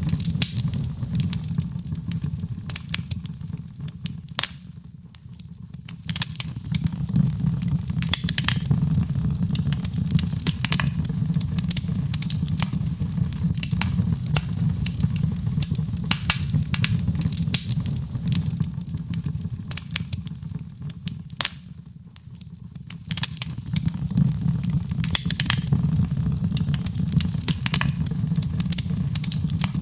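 Fire in a fireplace crackling, with frequent sharp irregular pops over a steady low rumble. The sound dips briefly twice, about five and twenty-two seconds in.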